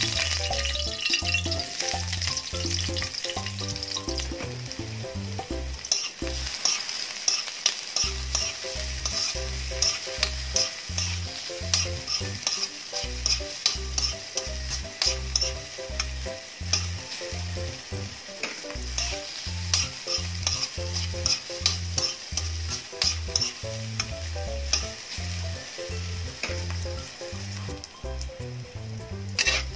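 Garlic and onion sizzling in hot oil in a metal wok, with frequent scrapes and clicks of a spatula against the pan as they are stirred.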